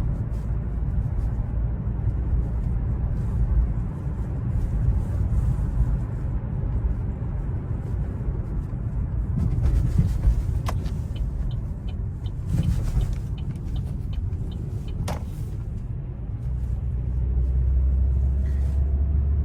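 Chevrolet Trax 1.4-litre gasoline SUV being driven: a steady low rumble of engine and road noise, with a few short knocks about halfway through.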